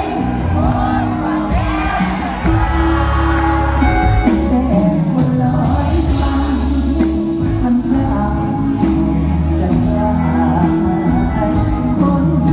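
Thai luk thung song performed live by a band, with a singer's voice over a steady drumbeat and bass.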